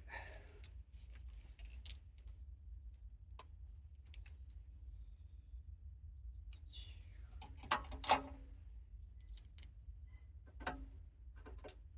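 Metal hand tools (spanners, a ratchet and sockets) clinking and clattering as they are picked up and tried on a bolt, with a louder clatter about eight seconds in, over a steady low hum.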